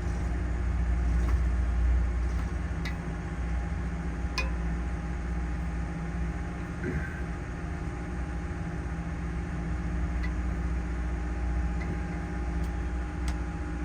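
Trawler yacht's diesel engine running steadily, a constant low hum with a few steady tones above it, and a few faint clicks.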